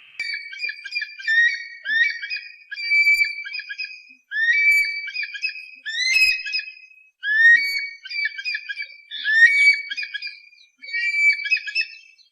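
A bird calling in phrases of clear, whistled notes with quick rising slurs, each phrase one to two seconds long, repeated again and again with short gaps.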